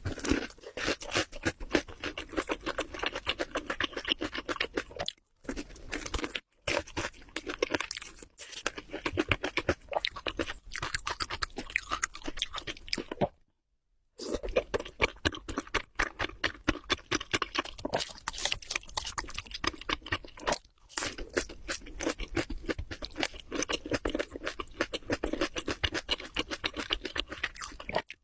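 Close-miked mukbang eating sounds: continuous crunching and chewing of food, made up of rapid crisp clicks with a few short pauses. About halfway through, the sound drops out completely for half a second.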